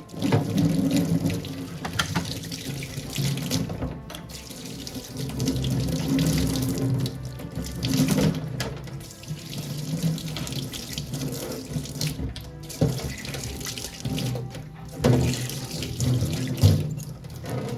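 Water running from a tap into a sink, its level rising and falling with a few brief dips.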